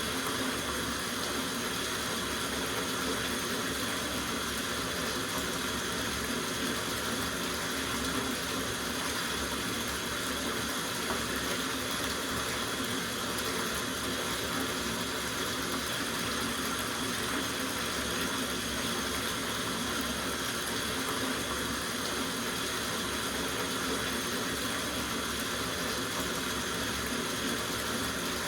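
Tap water running steadily into a soaking bathtub, a constant rushing splash with no breaks.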